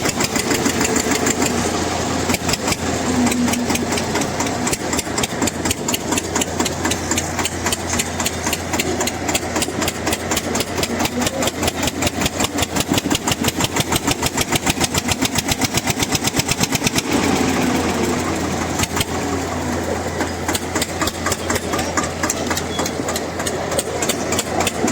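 Diesel tractor engines working hard under heavy load in a tractor tug-of-war, their exhaust pulses making a fast, even beat.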